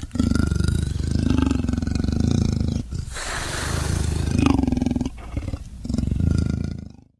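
Leopard growling and roaring in several long stretches, with short breaks between them.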